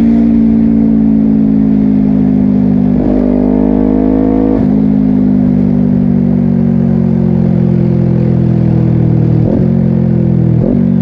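Honda CBR250RR parallel-twin engine running loud through a Yoshimura exhaust, with quick, clipped gear changes near the start and about three and four and a half seconds in. After that the engine speed eases down steadily, broken by two short blips near the end.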